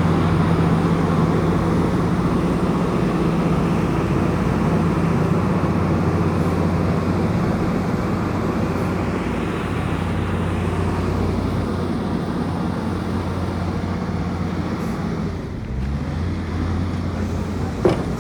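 Komatsu bulldozer's diesel engine running steadily under work, its note dipping and shifting briefly about fifteen seconds in, with a sharp metallic click near the end.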